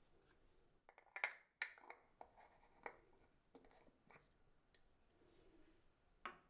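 Small objects handled by hand: a series of light clicks, taps and rubs, most of them between about one and three seconds in, with a quick double tap near the end.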